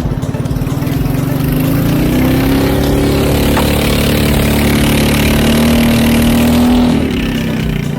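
Motorboat engine running, rising in pitch over the first few seconds as it speeds up, then holding steady before easing off near the end.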